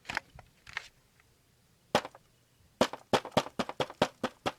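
Sharp clicks and clacks from a battery-powered Halloween animatronic switched on for a test: a few scattered ones, then a fast run of about five a second.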